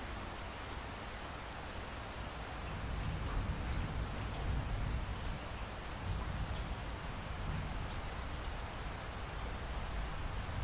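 Steady rain falling, with a low rumble underneath that grows louder a few seconds in.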